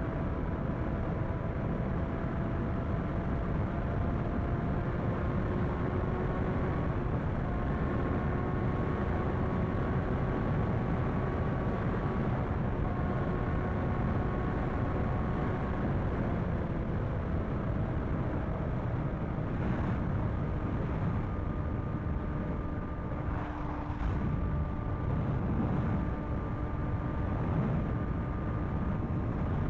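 Motorcycle engine running at a steady cruise, its pitch drifting slowly up and down, under a heavy steady rushing noise.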